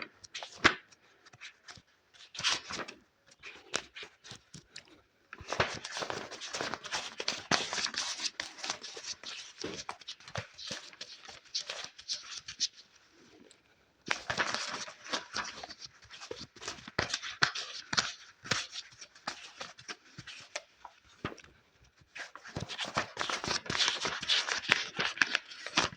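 Fast, crisp scratching and tapping on a book, made as ASMR triggers. The sounds come in three long runs with short pauses between them, after a few scattered taps at the start.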